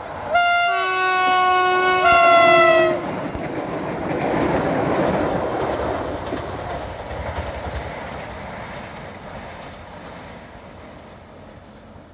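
Electric passenger train sounding its two-tone horn for about three seconds, the pitch dropping slightly at the end. The rumble of the train passing follows, louder about five seconds in and then fading away.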